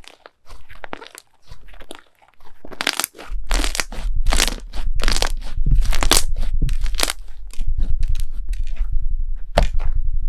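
Crunchy slime being squeezed and pressed by hand, crackling and crunching in repeated runs that grow louder about three seconds in.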